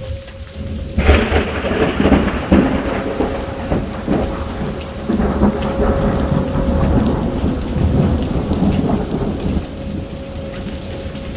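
A crack of thunder breaks about a second in and rumbles on for several seconds, slowly fading, over steady heavy rain.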